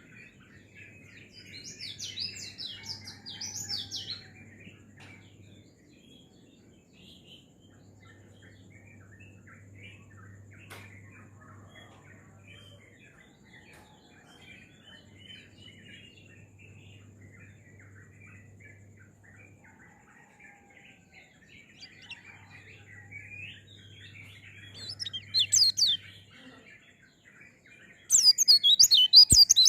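Pleci (white-eye) songbird singing fast, high twittering phrases, loud at about two seconds in and again near the end, with softer chattering in between.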